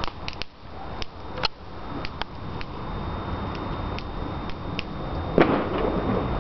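Bonfire of wooden pallets burning, with irregular sharp crackles and pops over a steady rush of flame, and one louder burst near the end.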